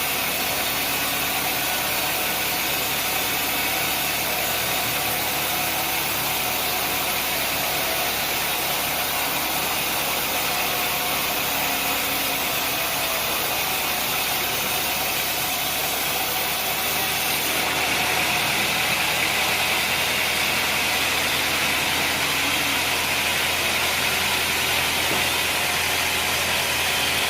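Sawmill machinery running steadily with an engine-like drone. About two-thirds of the way through, the sound shifts and grows slightly louder and brighter.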